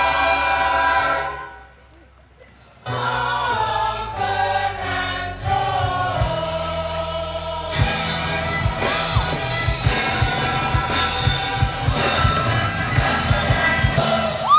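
Choir singing with instrumental accompaniment in a gospel style. A held chord cuts off about a second and a half in. After a short gap the choir and instruments start again, and a steady drum beat joins about halfway through.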